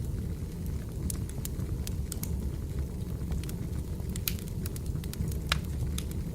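Log wood fire burning, crackling with irregular sharp pops over a steady low rumble of the flames, one pop standing out about five and a half seconds in.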